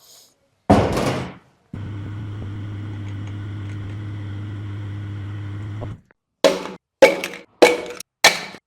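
A single heavy metal clunk, then a power tool running at a steady speed for about four seconds and cutting off, then regular ringing hammer blows on metal, four of them, each a little over half a second apart, during Audi W12 engine teardown work.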